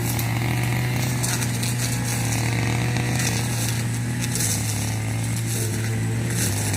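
A small engine running steadily with a low, even hum, its pitch dipping slightly a couple of times.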